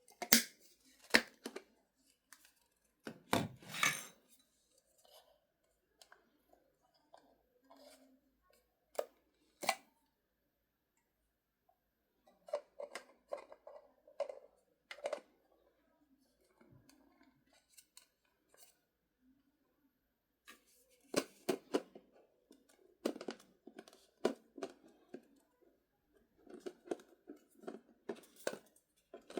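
Hands handling packaging and plastic parts: scattered sharp clicks, taps and rustles with quiet gaps between.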